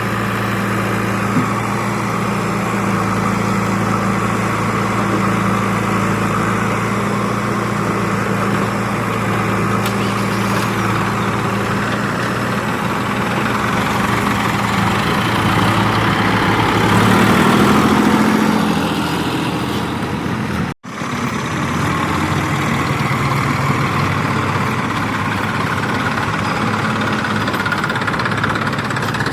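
Heavy diesel engine of farm or construction machinery running at a steady speed, rising briefly in pitch and loudness about seventeen seconds in before settling again. The sound drops out for an instant just before twenty-one seconds.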